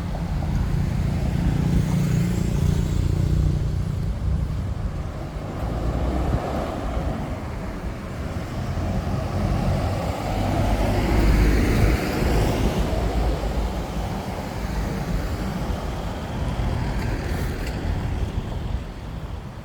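Road traffic passing on a busy street: a steady rumble of car and motorbike engines and tyres, with one vehicle passing close and loudest a little past the middle.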